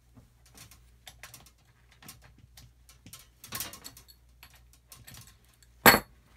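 Small metallic clicks and rattles of vacuum-line fittings being handled and disconnected, with one sharp, loud clack near the end, over a low steady hum.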